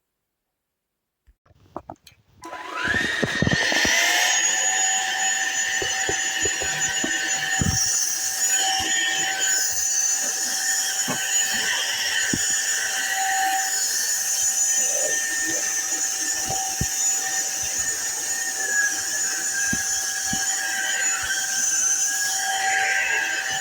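Cordless stick vacuum cleaner switched on after a couple of clicks: its motor spins up with a short rising whine, then runs steadily with a high whine and rushing air, with scattered small clicks and knocks.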